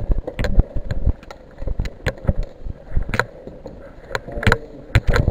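Irregular knocks and thumps, several a second and unevenly spaced, from a player moving on foot: footsteps and gear knocking after climbing in.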